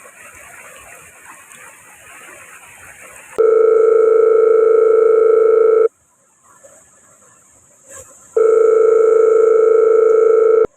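Two long, loud, steady beeps of one pitch, each about two and a half seconds, starting and stopping abruptly with a pause of similar length between them, over a rushing noise.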